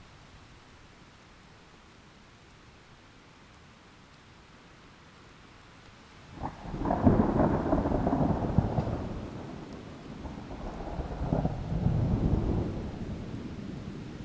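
Steady rain under a rolling thunderclap: the rain hisses quietly for about six seconds, then thunder breaks in sharply and rumbles, eases and rolls up a second time before fading near the end.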